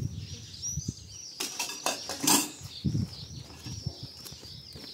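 Small birds chirping over and over in short high calls. A few sharp knocks and rustles sound in between, the loudest a bit over two seconds in.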